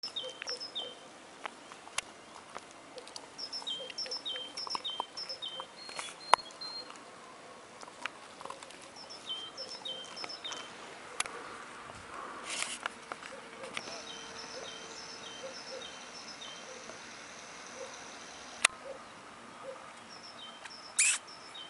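A small bird singing short phrases of two alternating high notes, each phrase repeated three or four times, in several bouts, over a quiet outdoor background, with a few sharp isolated clicks.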